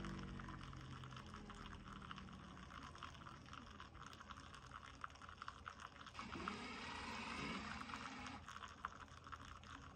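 Spinn coffee maker finishing a brew: a low hum fades away in the first second, then a faint trickle and dribble of liquid.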